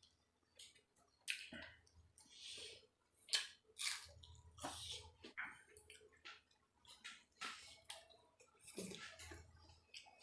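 Close, wet chewing and mouth sounds of someone eating chicken, in irregular short bursts a fraction of a second apart.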